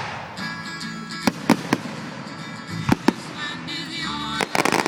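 Fireworks going off: scattered sharp bangs, then a rapid run of crackling reports near the end, with music playing.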